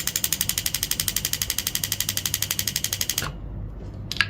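24 V truck relay clicking rapidly and evenly as the tester pulses its coil. The steady clicking shows the relay is good. The clicking cuts off suddenly about three seconds in, and a single sharp click follows near the end.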